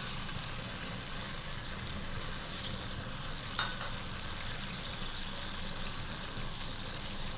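Chopped tomatoes frying in hot oil in a karahi, a steady sizzle as they soften. There is a single light tick about three and a half seconds in.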